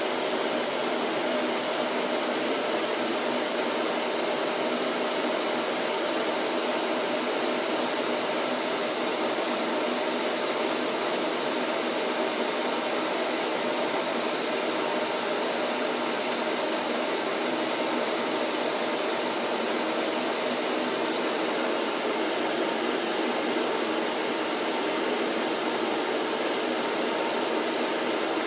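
Vacuum cleaner running steadily: a constant rush of air with a faint held whine, unchanging throughout.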